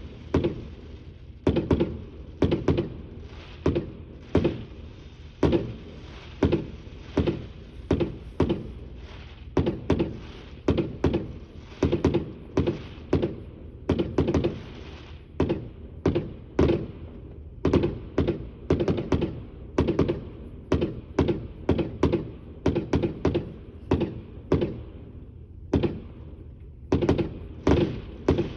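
Fireworks bursting in quick succession: a steady barrage of deep booms, often in close pairs, about one to two a second, with a short lull near the end.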